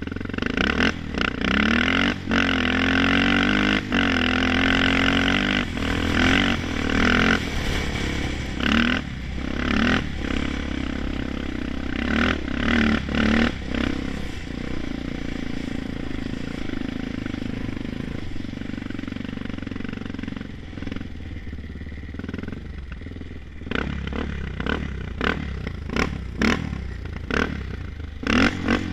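Honda 400EX ATV's single-cylinder four-stroke engine revved hard in repeated surges, held high for a few seconds near the start. It settles to lower, steadier running in the middle, then gives a string of quick short blips near the end.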